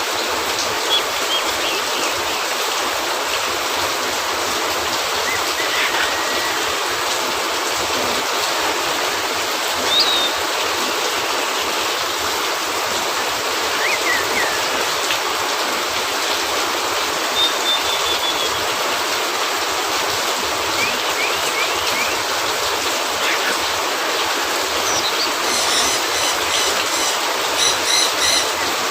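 Steady rain falling on a cabin roof, an even hiss. A few short chirps come through now and then, and a run of quick clicks starts near the end.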